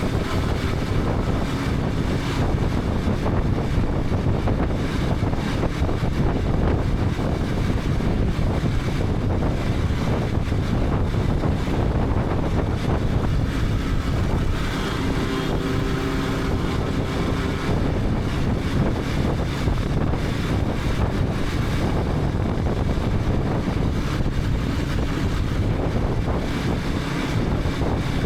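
KTM 250 Adventure's single-cylinder engine running steadily on the move, mixed with road noise. Heavy wind buffets the helmet-mounted action camera's microphone.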